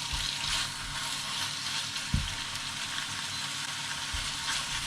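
Chicken pieces sizzling as they are stir-fried in spice paste in a pan, a steady hiss, with a few knocks, the sharpest about two seconds in.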